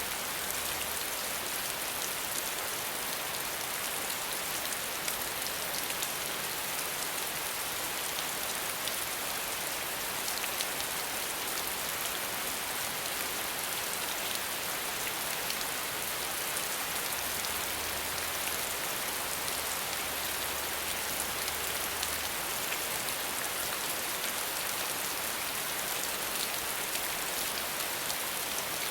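Steady rain falling without thunder: an even, dense hiss with scattered faint drop ticks.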